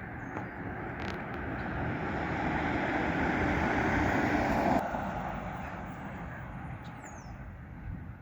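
Vehicle road noise, a steady hiss and rumble that swells to a peak a little under five seconds in, then drops off sharply and fades.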